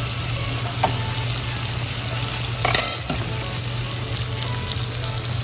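Beef salpicao frying in oil in a pan with a steady sizzle while a metal spoon stirs it. There is a faint click a little under a second in, and a louder clatter of the spoon against the pan a little under three seconds in.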